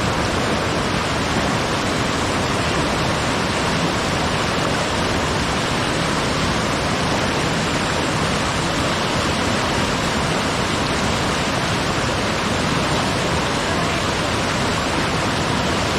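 Loud, steady rush of white water close by: an even, unbroken hiss with no distinct splashes.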